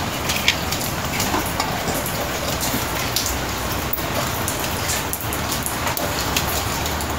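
Rain pattering steadily on wet paving tiles, a dense run of small drop clicks.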